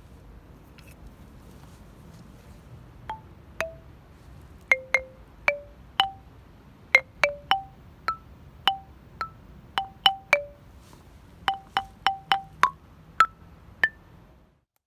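Notes played one at a time on an outdoor park music station's tuned percussion, about twenty struck notes of different pitches, each ringing briefly. They begin a few seconds in and stop suddenly near the end.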